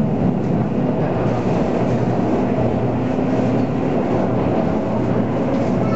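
MTR Tung Chung Line A-Train running at speed: a steady rumble of wheels on rail with an even hum from the train underneath.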